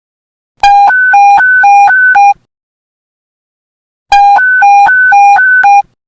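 Police radio panic-button emergency alert tone: two bursts, each a rapid two-pitch warble alternating between a low and a high beep about four times a second, separated by a pause of under two seconds.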